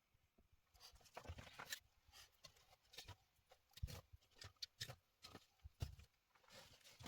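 Faint, irregular clicks, rustles and a few soft knocks, like objects being handled.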